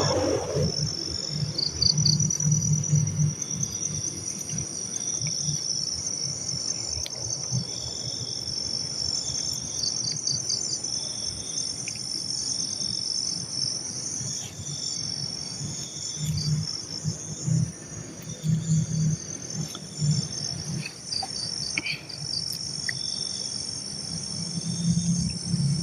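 Chorus of crickets and other insects: steady high-pitched trilling, with a shorter chirp repeating about every second or so.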